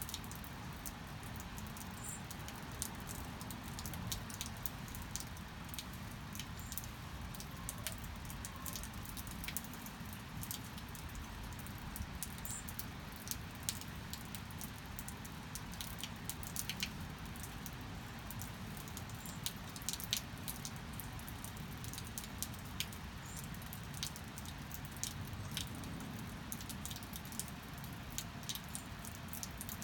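Steady rain with many irregular, sharp drip and patter ticks.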